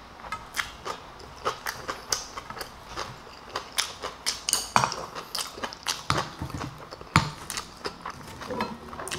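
A person chewing a mouthful of food close to the microphone: irregular wet smacks and crisp clicks, a few a second, with several louder ones.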